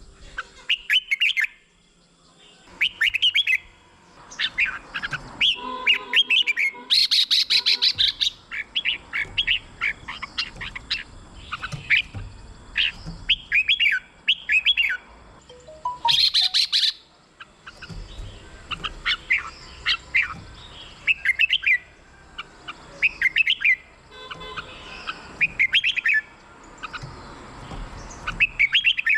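Red-whiskered bulbul singing: short, quick whistled phrases repeated every second or two. Two louder, harsher chattering bursts come about a quarter of the way in and again just past the middle.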